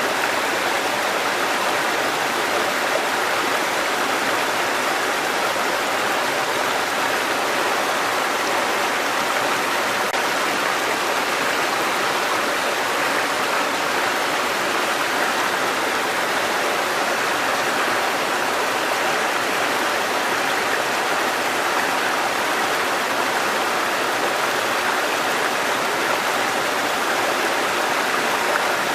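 Water cascading over rocks in a mountain stream: a steady, unbroken rush of splashing water.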